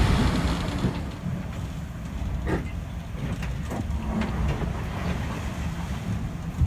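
Steady low rumble of a sailboat's motion through rough seas, with a few light knocks and clatters from loose things aboard.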